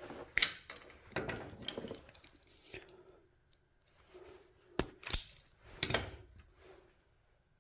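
Small hand tools and parts handled at a workbench: several sharp metallic clicks with rustling and scraping between them.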